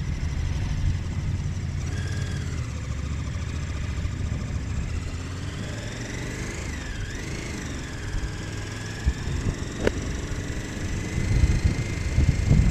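KTM 1290 Super Adventure S's V-twin engine running at low load, quieter through the middle, with a single sharp click about ten seconds in, then growing louder near the end.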